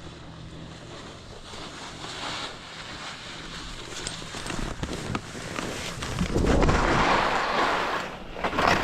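Ski or snowboard edges scraping and chattering down a steep slope of firm snow, a crackly noise that gets louder about six seconds in as speed builds.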